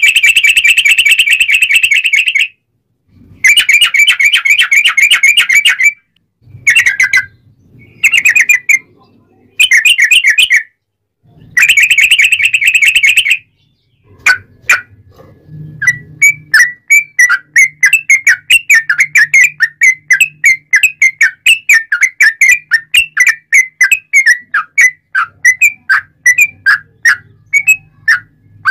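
Yellow-vented bulbul (trucuk) singing loudly: several rapid trilled phrases of about two to three seconds each with short gaps in the first half, then a long run of separate short whistled notes, about two or three a second.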